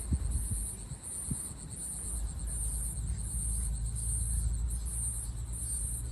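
Insects calling in an even run of high-pitched pulses, about three every two seconds, over a steady low rumble.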